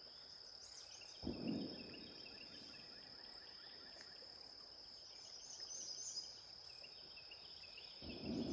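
Steady high-pitched drone of a cicada chorus, with birds chirping over it. A short rushing noise comes about a second and a half in, and a louder rushing noise starts near the end.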